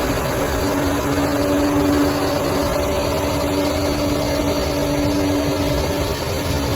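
Bulldozer's diesel engine running steadily, with an even hum and no change in speed.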